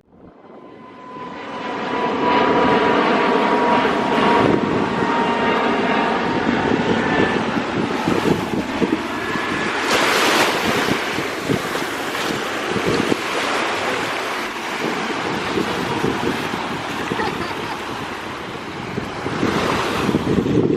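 Sea waves washing onto a beach, with wind buffeting the microphone; the sound fades in over the first couple of seconds.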